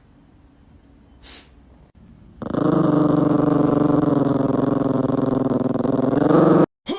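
A dog growling: one long, steady, rough growl lasting about four seconds that stops abruptly.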